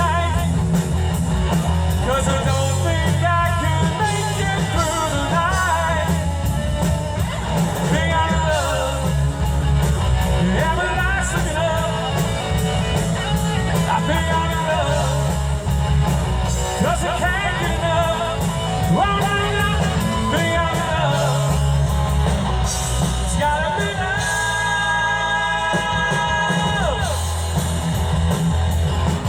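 Live rock band playing with a singer over heavy bass and drums. A long held sung note comes near the end.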